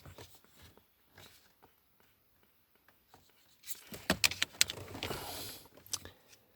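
Hands working on the car's HVAC flap positioning motor while fitting it: a few scattered clicks, then about four seconds in a denser run of sharp clicks and knocks with some rustling.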